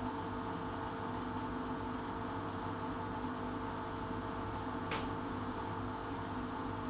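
Atlant washing machine running with a steady mechanical hum, and one brief click about five seconds in.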